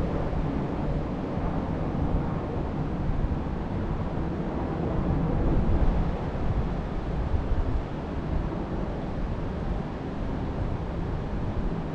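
Wind blowing in gusts and buffeting the microphone, a rough low rumble that swells a little midway.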